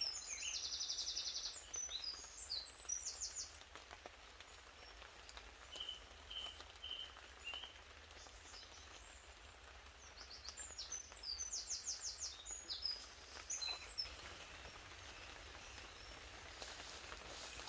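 A songbird singing two phrases of high chirps, each with a fast trill, the second about ten seconds after the first, over a faint steady background of drizzle in woodland.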